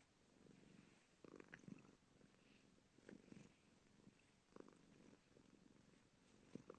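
Faint cat purring, swelling and fading in slow breaths about every second and a half.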